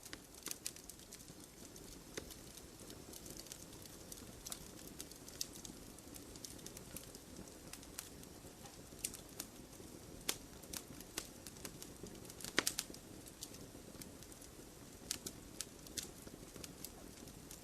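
Wood fire crackling: irregular sharp pops and snaps over a low, steady hiss of burning, with one louder pop about two-thirds of the way through.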